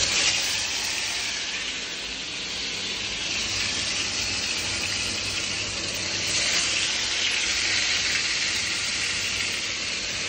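Kingfish head pieces sizzling steadily in hot oil in a frying pan.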